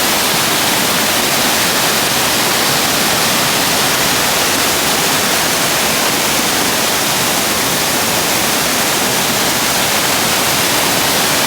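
A waterfall's falling water, heard close: a loud, steady rush with no breaks.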